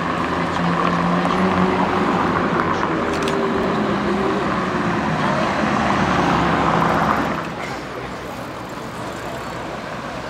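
Ferrari F430 Scuderia's V8 engine running at low revs as the car drives slowly, with other traffic around it. The engine sound drops away a little after seven seconds in, leaving steady street noise.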